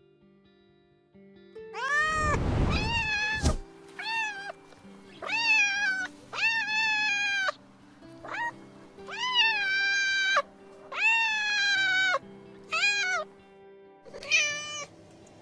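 Domestic cat meowing repeatedly, about ten meows of differing length, the first one long, loud and harsh. Soft background music plays underneath.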